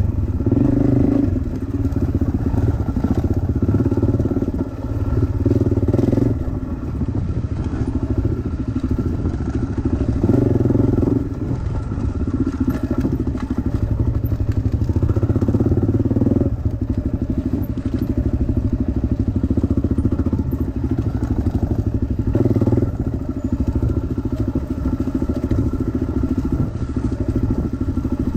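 Dirt bike engine running under way, revving up and easing off again and again as it is ridden along a trail.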